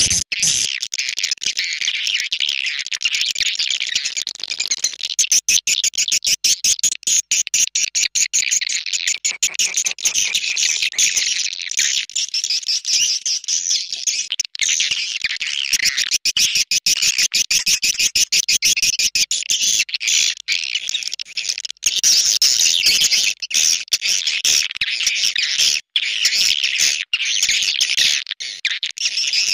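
Swiftlet lure call: a recording of swiftlets twittering in a dense, continuous, high-pitched chorus with rapid clicking pulses. It is played to draw edible-nest swiftlets into a nesting house.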